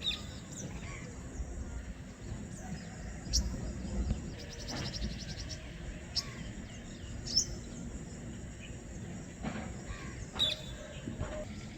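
Birds chirping outdoors: short, sharp high chirps every couple of seconds and one brief rapid trill, over a steady low background rumble.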